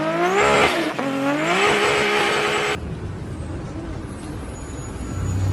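Toyota Supra MK4's inline-six engine accelerating hard, its pitch rising, dipping briefly about a second in, then rising again and holding. About halfway through it cuts off abruptly to a quieter low rumble.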